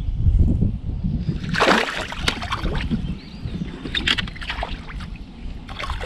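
Water sloshing and splashing around a kayak, with one strong splash about a second and a half in and a few knocks of handling later.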